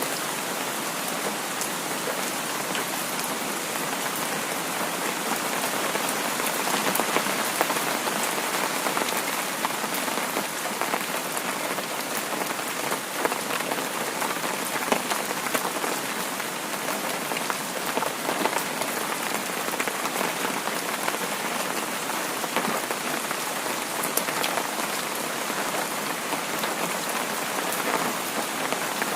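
Heavy rain falling steadily, a dense hiss flecked with many small drop ticks.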